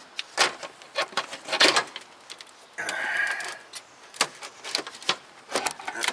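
Knocks, clicks and a short scrape as an engine's loosened intake manifold is worked up and over a stud by hand.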